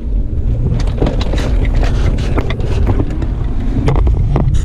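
Car driving with a window open: wind buffeting the microphone over a steady low rumble of engine and road noise.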